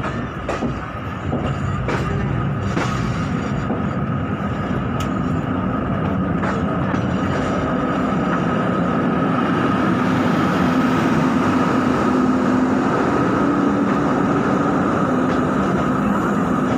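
Indian ICF passenger coach running on the rails, heard from its open doorway: sharp wheel clacks over rail joints in the first few seconds, then a steady, slowly building rumble with a continuous hum.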